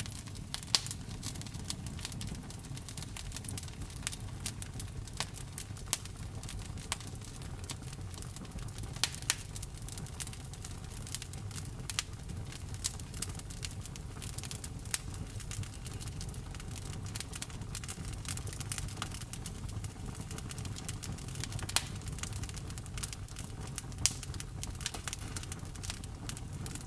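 Wood fire burning, with irregular sharp crackles and pops over a steady low rumble; a few pops stand out louder.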